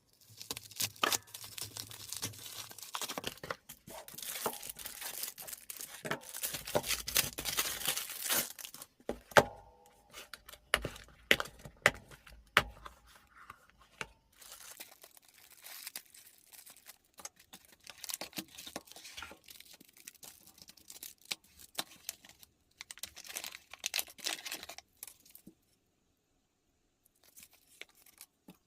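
Watch packaging being torn and unwrapped by hand: bursts of tearing and crinkling with scattered sharp clicks and taps.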